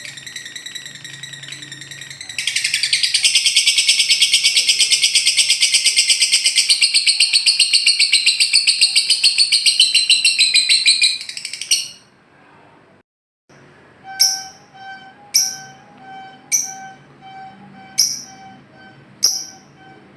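A lovebird's long, rapid, rattling trill (the 'ngekek'), loud and evenly pulsed, which stops after about twelve seconds. After a brief silence, five sharp downward-sweeping chirps come about a second apart over a faint steady tone.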